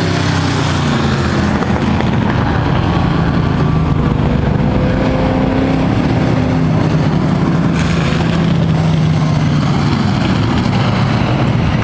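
Several race trucks' engines running at moderate, steady throttle, their tones overlapping and slowly rising and falling as the field circles under caution.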